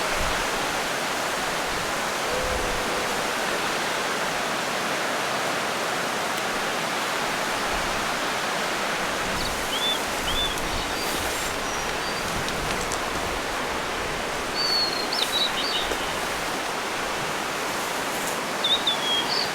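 Steady rush of a mountain stream, with a bird chirping a few times around the middle and near the end.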